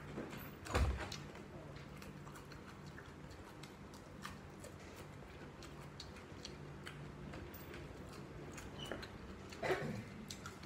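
Close-up chewing of crisp raw cucumber slices, with scattered small crunches and clicks. A single louder knock comes about a second in, and another near the end.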